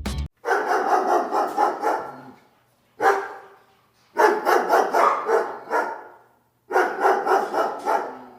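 A dog barking in quick runs of several barks, with one single bark between the runs.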